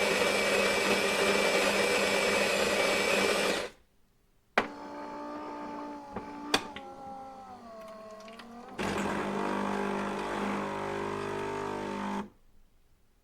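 Electric coffee grinder motor running steadily, cutting off suddenly about four seconds in. After a click comes a quieter whir whose pitch glides down, then the grinder runs again for about three and a half seconds and stops abruptly.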